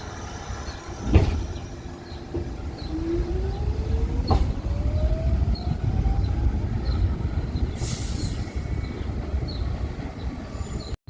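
New York City subway train running through the station, a steady low rumble with a thump about a second in and an electric motor whine rising in pitch over several seconds as it gathers speed. A short hiss follows near the end.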